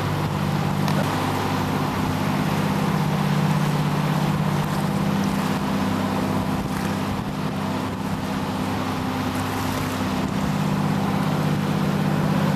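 Motorboat engine running steadily at a constant pitch, with an even hiss of water and wind over it.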